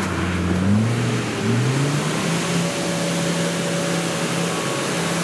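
Engine of a modified off-road 4x4 revving up about a second in, then holding a steady note under load as it crawls up a muddy rutted slope.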